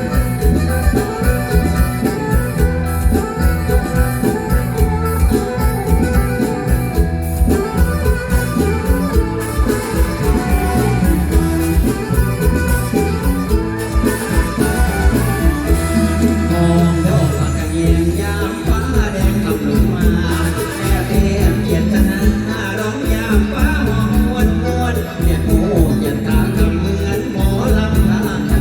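Live mor lam band music played through a loud PA, with a steady, heavy bass-drum beat under the instruments.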